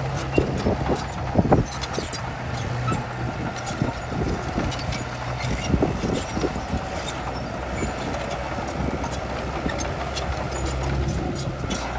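Crawler bulldozer's diesel engine running steadily, with irregular clanks and knocks throughout.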